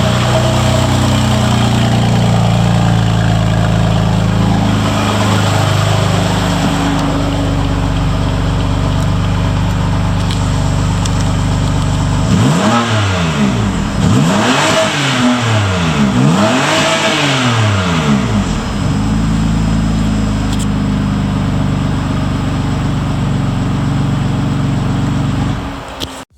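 BMW M4's S55 3.0-litre twin-turbo inline-six idling steadily, then revved three times in quick succession about halfway through, each rev rising and falling back, before it settles to idle again. The sound cuts off abruptly near the end.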